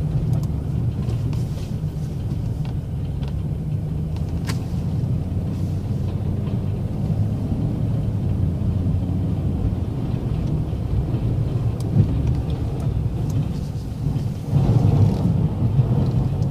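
Plow truck's engine running with a steady low rumble. It gets louder about two seconds before the end.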